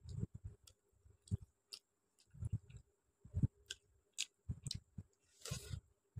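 Close-miked chewing of rice and chicken curry: irregular wet smacks and clicks of the mouth, with one longer noisy mouth sound about five and a half seconds in.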